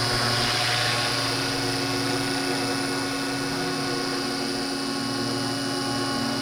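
Battery-powered scale RC helicopter hovering at flight RPM: a steady whine and hum from the electric motor and spinning rotor blades, holding an even pitch.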